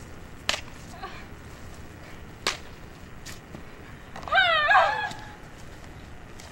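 A few sharp, separate clacks, then about four seconds in a short high wavering cry, the loudest sound, lasting under a second.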